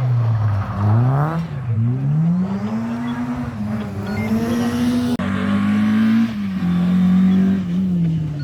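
Rally car engine revving hard, its pitch climbing and falling several times as the driver works the throttle and changes gear, with a sudden shift in the sound about five seconds in.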